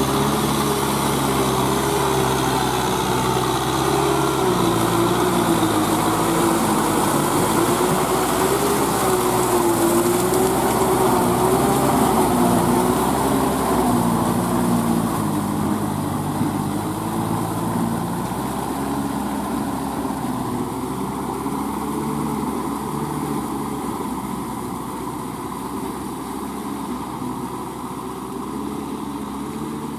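Kubota M6040SU tractor's diesel engine working under load while rotary-tilling wet paddy soil, its pitch wavering slightly as the load changes. It fades gradually through the second half as the tractor moves away.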